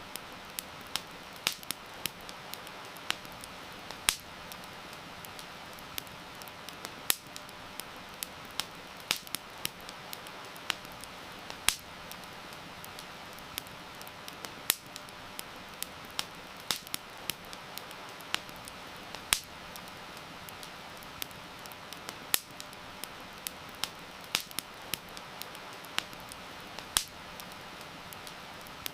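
Wood fire crackling, with irregular sharp pops several times a second over a steady hiss of rain.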